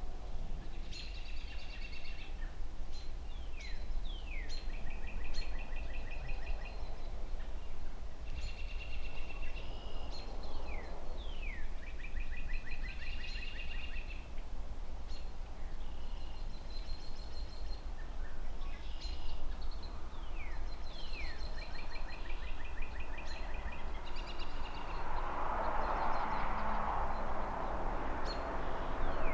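Songbirds singing over and over, each phrase a quick downward-sweeping whistle followed by a rapid trill, over a steady low rumble of distant city traffic. A passing vehicle swells up in the last few seconds.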